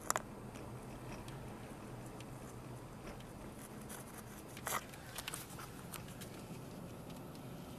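Steady low hum inside a vehicle cab, with a few sharp clicks or taps about five seconds in.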